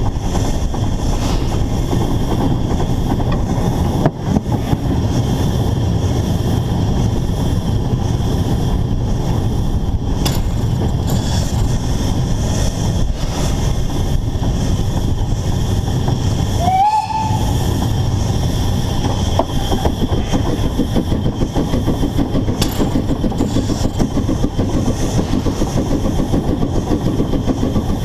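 Narrow-gauge steam locomotive on the move, heard from a camera fixed to the engine itself: steady, heavy running noise from the engine and wheels on the rails. A short rising tone sounds about two-thirds of the way through, and in the last stretch the sound pulses at an even rhythm.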